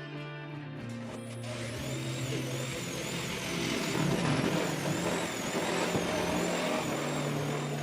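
Power saw cutting through plywood, starting about two seconds in: a dense cutting noise with a motor whine that wavers up and down in pitch, over background music.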